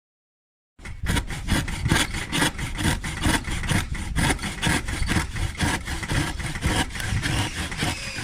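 Hand saw cutting through a board of scrap wooden decking: steady back-and-forth strokes, about three a second, starting about a second in.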